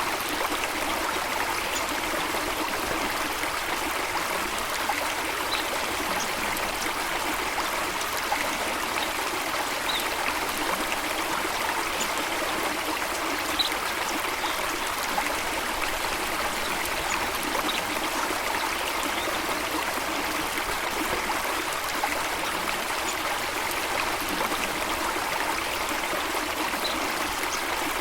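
Running water, an even steady rush and trickle, with a few faint, short high bird chirps scattered through it.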